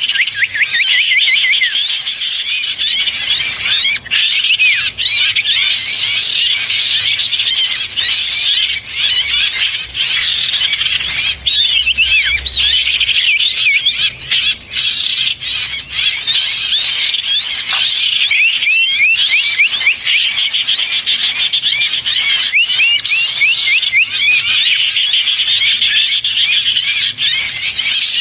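A dense, unbroken chatter of many small songbirds calling over one another: quick overlapping chirps and trills, as in a bird-lure recording meant to draw wild birds in.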